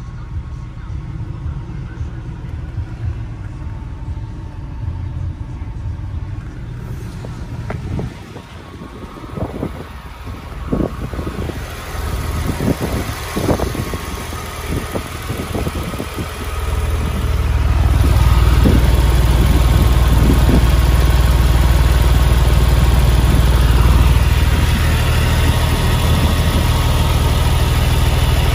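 A 2006 Porsche 911 Carrera 4's flat-six engine idling steadily. About two-thirds of the way through it gets much louder and deeper, heard close up beneath the car. Before that comes a run of clicks and knocks.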